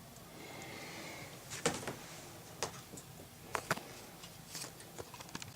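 The stove's sliding air-supply regulator being moved to let in more air: a brief metallic scrape with a faint squeal, then a scattering of sharp clicks and knocks.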